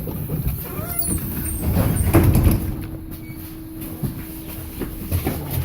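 Interior sound of a BKM-321 trolleybus: a steady electrical hum over low rumble, with short rising whines about a second in and a louder noisy stretch about two seconds in.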